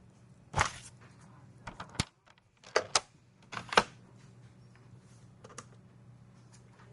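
Computer keyboard keys struck in a few loud, separate clacks, mostly in pairs, between about half a second and four seconds in, with one faint click later. A steady low hum of office room tone runs underneath.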